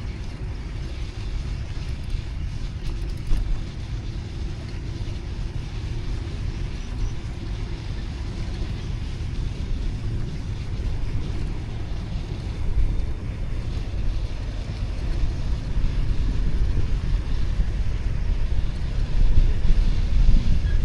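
Steady low rumble of wind on the microphone mixed with street traffic, heard while riding a bicycle; it grows louder over the last few seconds.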